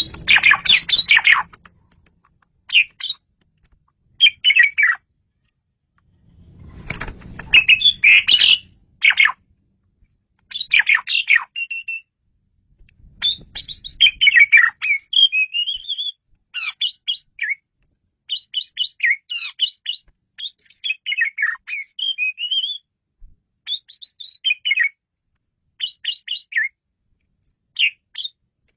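Male Asian pied starling (jalak suren) singing: a long run of short, varied whistles, chatters and gliding notes in quick phrases with brief pauses, with louder, harsh phrases at the start and about eight seconds in.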